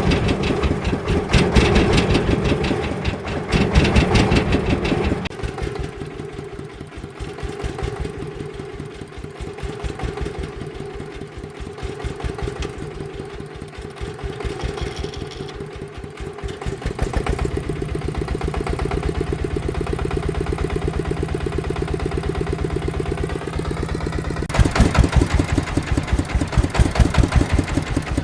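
Farm vehicle's engine running with a fast, even firing rhythm. It is louder for the first five seconds, drops back to a quieter run, then is loud again near the end.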